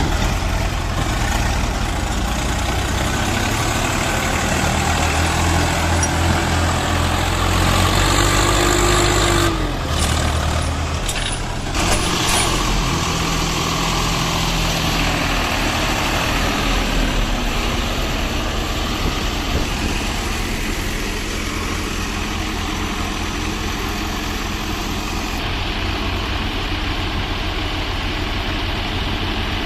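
Swaraj 855 FE tractor's three-cylinder diesel engine running steadily while hauling a fully loaded trolley. A few knocks and a brief change in the engine note come about ten seconds in.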